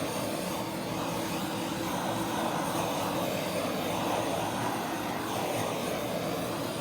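Handheld heat gun blowing steadily over a freshly poured acrylic painting, its fan and motor running with an even hum, used to pop surface bubbles and bring up cells in the paint.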